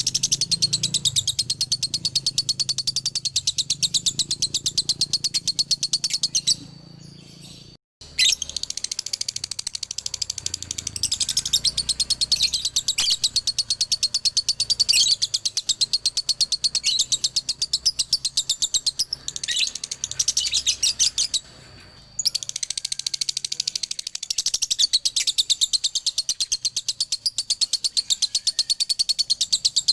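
Male lovebird singing a long, very rapid chattering trill of high chirps, broken by two short pauses, one about seven seconds in and one about twenty-one seconds in.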